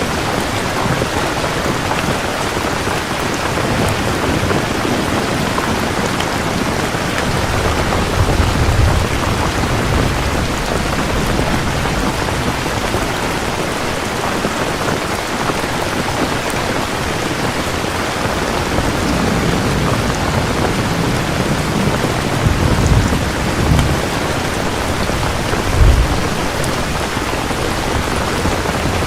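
Steady heavy rain with thunder rumbling several times, the loudest peal near the end.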